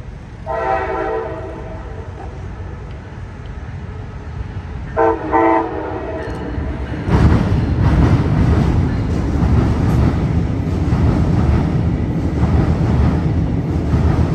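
Brightline passenger train sounding its horn: one longer blast about half a second in, then two short blasts around five seconds in. From about seven seconds the train rumbles loudly across the steel railway bridge, with rail clatter.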